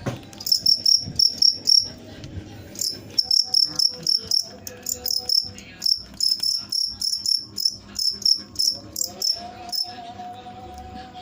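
Cricket chirping close and loud: rapid trains of short, high chirps at about four a second. The chirping pauses briefly about two seconds in and stops shortly before the end.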